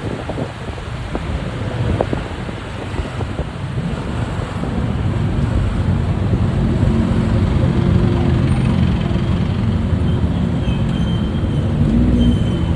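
Motorbike engine and road noise in city traffic, heard from on the moving bike; the sound grows louder about four seconds in.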